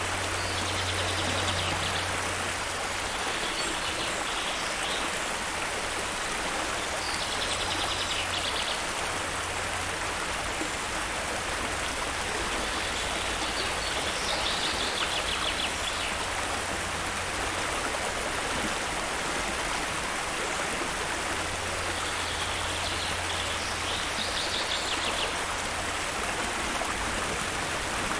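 Steady rushing of flowing stream water, with short high bird trills recurring every few seconds over it.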